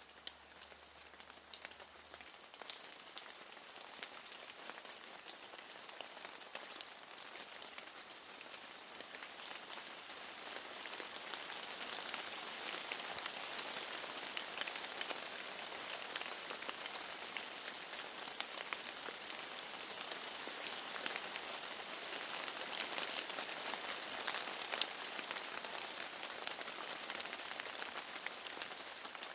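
Rain falling steadily, with many individual drops tapping. It grows louder over the first ten seconds or so, then holds steady.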